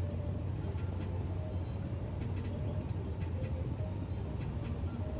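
Steady low rumble of a car on the move, engine and tyre noise as heard while driving, with a few faint light ticks and rattles.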